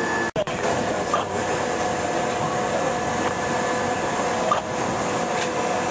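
Steady machine hum with a couple of constant tones and a few faint chirps, cut briefly by a sharp dropout about a third of a second in.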